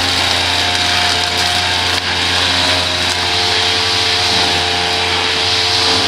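Small gasoline engine of lawn-care equipment running steadily at a constant speed.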